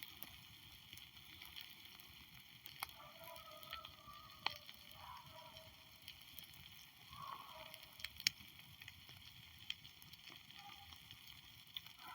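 A backyard fire crackling faintly, with a few sharp pops, the loudest about eight seconds in. Faint wavering voice-like calls come and go over it.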